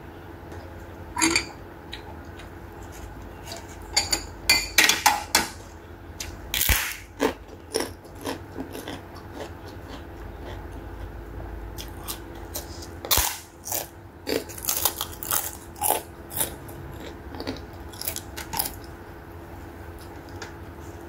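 Close-up crunching bites and chewing of a crisp fried cracker, coming in clusters of sharp crackles with quieter chewing between.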